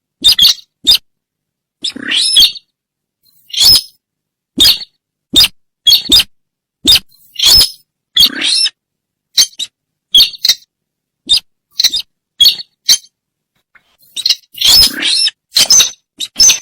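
Lure recording of sintar bird calls: short, sharp, high calls repeated about once or twice a second, each one cut off cleanly into silence.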